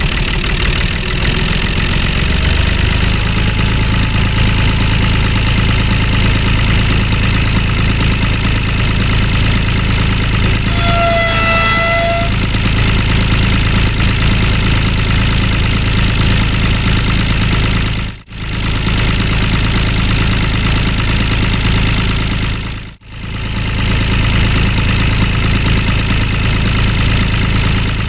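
Miniature model tractor's engine running steadily, with a short horn-like tone about eleven seconds in. The sound drops out abruptly for a moment twice in the second half.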